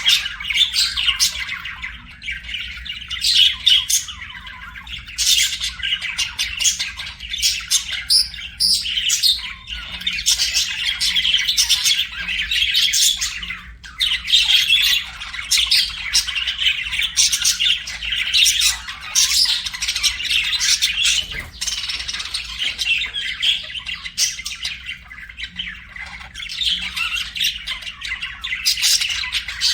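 Budgerigars chattering, warbling and chirping without pause, with frequent short squawks.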